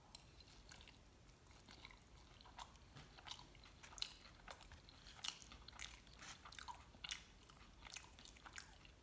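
Faint chewing of mole chilaquiles, tortilla chips in sauce, with irregular small crunches.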